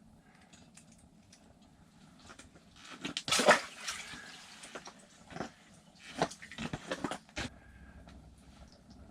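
Water splashing and sloshing in several short, irregular bursts. The loudest comes about three seconds in, with more from about six to seven seconds in.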